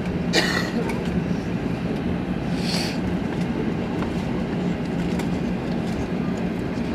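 Cabin noise on the lower deck of an Airbus A380 taxiing after landing: a steady rumble with a low hum. Two short hissing sounds come through, one about half a second in and one near three seconds in.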